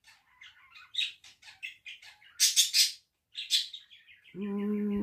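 A bird chirping in quick, repeated short notes. Near the end a person's voice joins in with a held hum.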